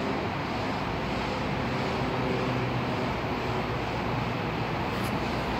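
Steady low rumble of a train approaching in the distance, mixed with road traffic noise.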